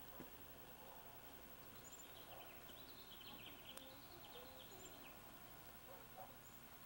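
Near silence: faint outdoor ambience, with quiet bird chirping for a couple of seconds in the middle.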